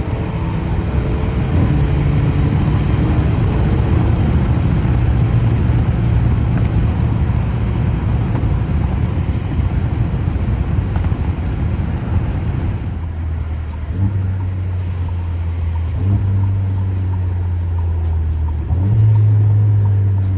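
The Alfa Romeo Giulia's four-cylinder engine, running through a muffler-delete exhaust while driving. For the first dozen seconds a steady engine drone sits under tyre and road noise. The road noise then drops away, leaving a steady lower engine note that steps up in pitch twice near the end.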